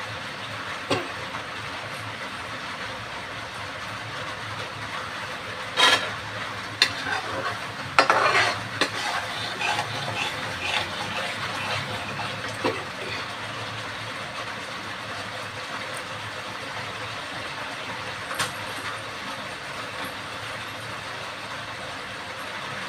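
Food sizzling steadily as it fries in a pan, with a metal spoon clinking and scraping against the pan as it is stirred, most busily a third of the way through.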